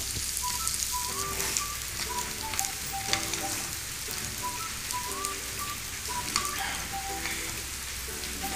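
Sliced onions and curry leaves sizzling in hot oil in a non-stick kadai, with a few clicks and scrapes of the spatula as they are stirred. A light background melody of short notes plays over it.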